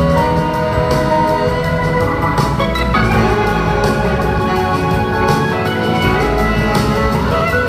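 Live rock-soul band playing an instrumental passage, with organ held under the band and sliding pitches over it.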